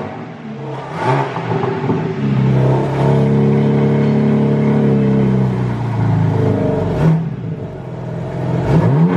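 BMW G80 M3's twin-turbo S58 inline-six, fitted with new intakes and downpipes, revved and heard at the quad exhaust tips. A rev is held steady for a few seconds and falls back, then there is a short blip and a rising rev near the end.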